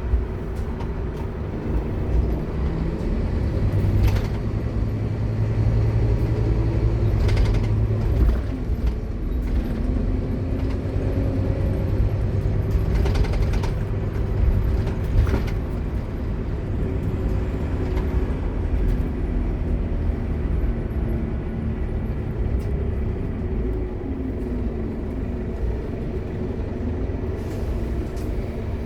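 Scania K230UB Omnilink bus running, with the whine of its ZF Ecomat automatic gearbox gliding up and down in pitch as the bus pulls away and changes gear. Several short sharp noises cut through the engine sound.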